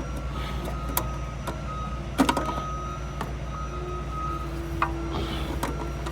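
Clicks, knocks and faint squeaks of a stuck oil filter being worked loose a little at a time, over a steady low hum. Three sharp knocks come about a second in, a little past two seconds, and near the end.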